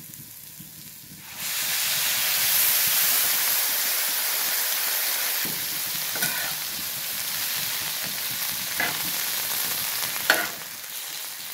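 A splash of water hits hot mustard oil with frying onions and green chillies in a metal wok. About a second and a half in, a sudden loud sizzle breaks out and settles into steady frying, with a few scrapes of the spatula.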